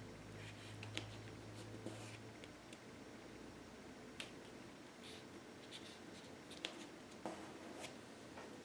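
Faint strokes and dabs of a paintbrush laying acrylic paint on canvas: soft scrapes with a few small sharp clicks of the brush tapping the surface. A low electrical hum stops about two seconds in.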